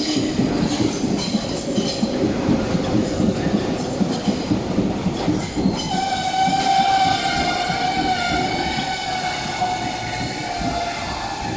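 Tobu Isesaki Line train moving alongside the platform, its wheels clacking over the rail joints with a heavy rumble. About halfway through, a steady high-pitched whine with overtones sets in and holds, dipping slightly in pitch near the end.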